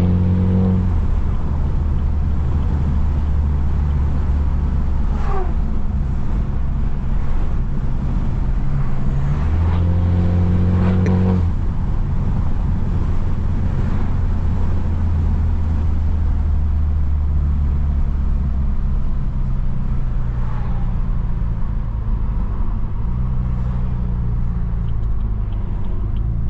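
Straight-piped BMW F30's exhaust droning steadily at low, light-throttle cruise, swelling louder for a couple of seconds about ten seconds in.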